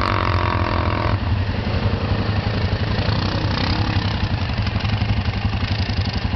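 ATV (quad bike) engine idling steadily with an even low pulsing hum, its pitch rising and falling slightly about three seconds in.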